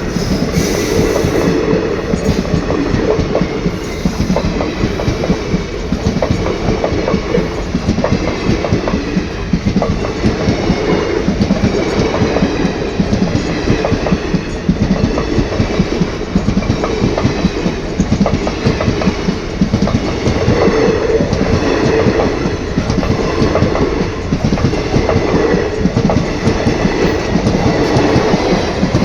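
Passenger express train of ICF coaches running past, the wheels clattering steadily over the rail joints.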